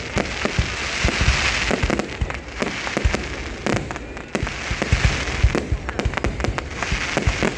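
Fireworks display: a rapid, irregular run of booms and bangs over continuous crackling.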